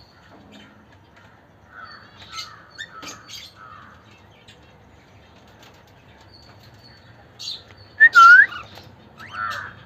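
Cockatiels calling: a few soft chirps in the first seconds, then a loud curving whistled call about eight seconds in, followed by more calls near the end.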